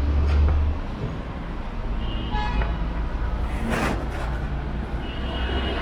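Wind rumbling on the microphone of a moving electric bike amid road traffic, with a short vehicle horn beep about two seconds in and a brief hiss shortly after.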